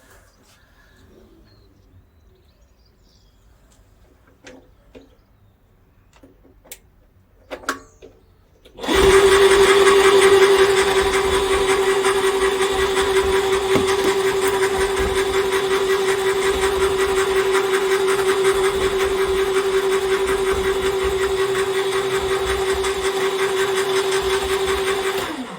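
An electric cable-stripping machine's motor starts about nine seconds in and runs steadily with a constant hum until it stops just before the end. Before it starts there are only a few faint clicks.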